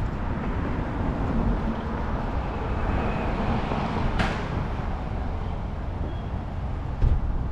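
Outdoor road and traffic noise with a heavy low rumble and buffeting, with no clear engine note. A brief hiss comes about four seconds in, and a low thump comes near the end.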